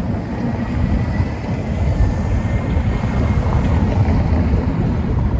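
Street noise, mostly a steady low rumble of passing traffic, with a faint thin whine in the middle.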